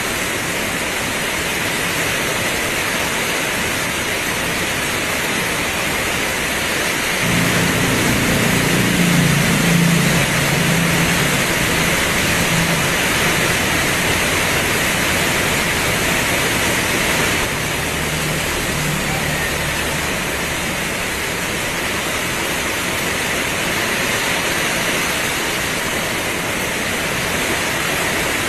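Heavy rain pouring steadily. About a quarter of the way in, a low rumble starts suddenly under the rain, lasts about ten seconds and cuts off abruptly.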